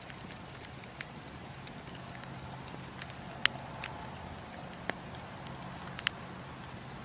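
Wood fire crackling in a fireplace: scattered sharp pops, the loudest about three and a half seconds in and another just after six seconds, over a steady low background of the burning fire.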